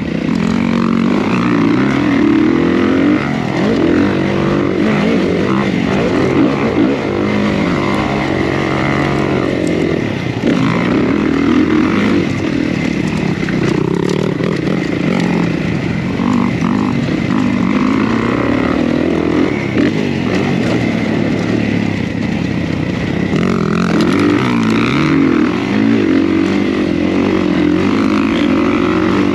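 Kawasaki KX450 dirt bike's single-cylinder four-stroke engine being ridden hard. It revs up and down continuously, its pitch rising and falling over and over with the throttle.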